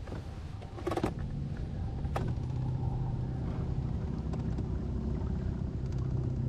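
A boat motor running with a steady low hum that comes up about two seconds in, preceded by two sharp knocks.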